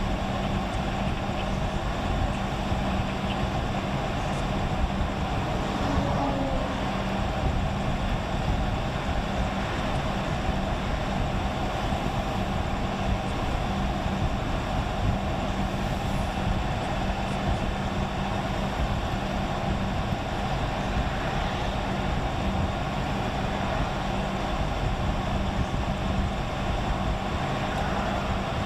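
Steady road noise heard from inside a moving car's cabin: tyres and engine running evenly, with a constant low hum.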